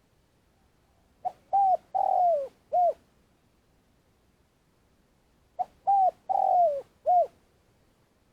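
Spotted dove giving its long calling coo twice. Each phrase is a brief note, a short coo, a longer coo that falls in pitch, and a final short coo.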